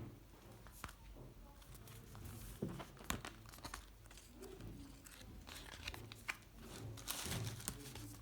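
Crinkling and rustling with scattered small clicks and taps, the sound of something being handled up close.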